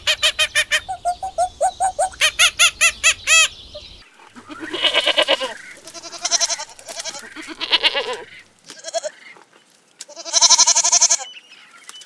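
Goats bleating: several long, quavering bleats follow one another from about four seconds in. Before them comes a rapid run of short, pulsed chattering calls, about five a second, that stops suddenly.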